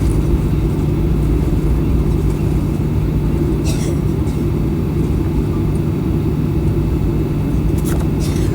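Steady rumble of a Boeing 737-800's CFM56 jet engines inside the passenger cabin, with a constant low hum under a broad roar. Two brief high hissy clicks come about four seconds in and near the end.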